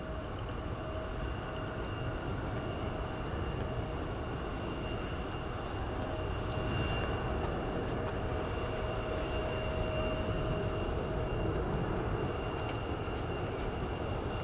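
Jet airliner engines running steadily: a low rumble with a steady high whine over it, swelling slightly through the middle.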